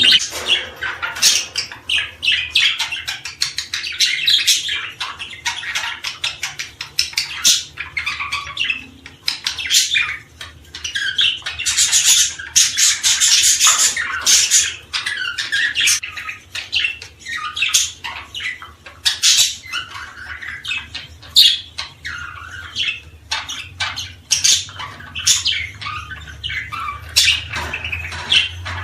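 A flock of small birds chirping and calling nonstop, many short sharp calls crowding over one another, over a faint steady low hum.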